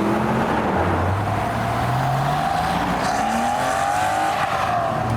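A car engine accelerating past, its pitch rising steadily for about three seconds and then falling away near the end.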